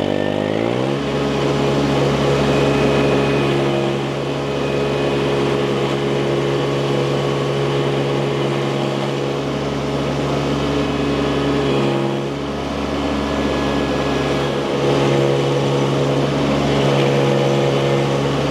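Baumalight mini skid steer's engine running steadily as the machine works, its pitch dropping and settling about a second in, with slight changes in loudness around four and twelve seconds in.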